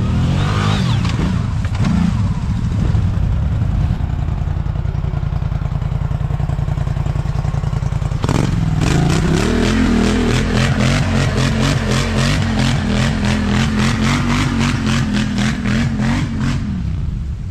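ATV engine running under throttle, revving up briefly near the start; from about eight seconds in it climbs to high, held revs with a quick regular pulsing, then drops off near the end.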